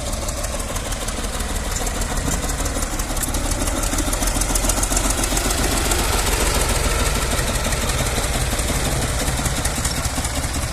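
Tractor's diesel engine running steadily with a fast, even chugging, getting a little louder about four seconds in.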